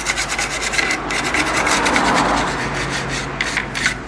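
Rapid scratchy rubbing: many quick short strokes in a row, heaviest around the middle.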